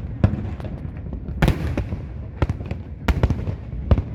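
Aerial firework shells bursting in a quick irregular series of about seven booms, each echoing into a low rumble that carries on between bursts.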